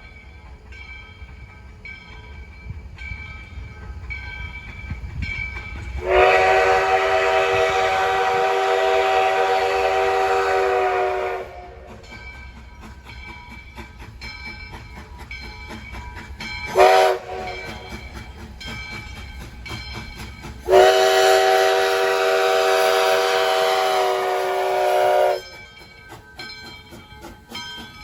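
US Sugar steam locomotive #148's steam whistle blowing a long blast, a short one and another long blast, the close of a grade-crossing signal, over the rumble and regular clicking of the moving train.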